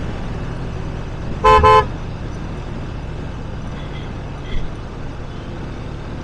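A vehicle horn honks once in a short double toot about a second and a half in, over the steady rumble of a moving vehicle and road noise.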